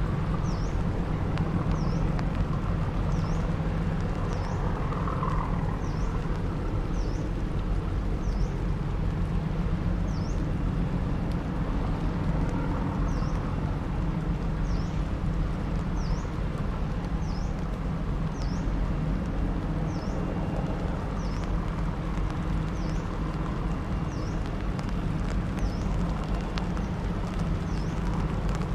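Steady low drone of a river sand boat's engine running, with a short high chirp repeating about once a second over it.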